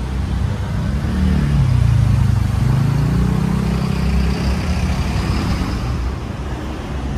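A road vehicle's engine close by, its note dipping and then climbing again, loudest about two seconds in, over a steady rumble of street traffic.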